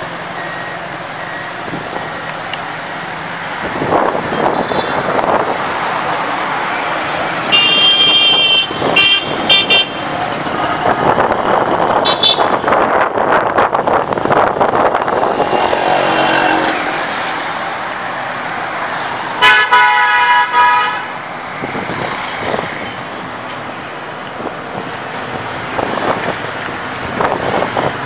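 Road traffic with vehicle horns honking over a steady rush of strong wind and traffic noise. There are several short honks about eight seconds in and one longer honk about twenty seconds in.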